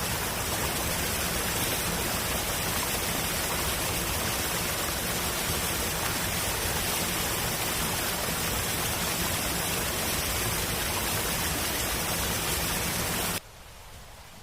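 Steady, even rushing noise, like heavy rain or rushing water, that cuts off abruptly near the end, leaving a much quieter background.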